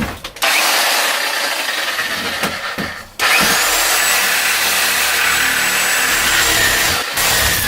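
A power saw cutting out the remnants of a rotted plywood bulkhead and its fibreglass tabbing, run in two long cuts with a short break between them.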